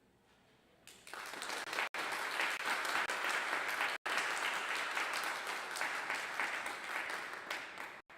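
Congregation applauding in a church sanctuary after a brass quintet finishes; the applause starts about a second in and stops abruptly near the end.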